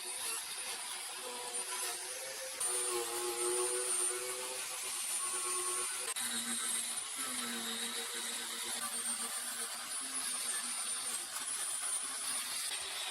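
A small electric power tool motor running continuously with a high whine, its pitch dropping about six seconds in as it takes load.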